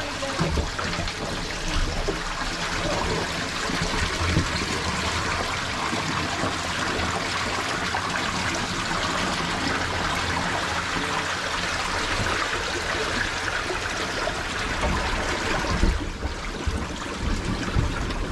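Lake water trickling and splashing steadily around the sunken rally car, with a few low knocks, more of them near the end.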